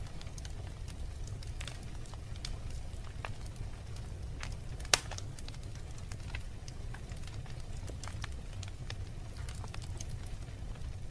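Wood fire burning in a fireplace: a steady low rumble of the flames with scattered crackles, and one sharp, loud pop about five seconds in.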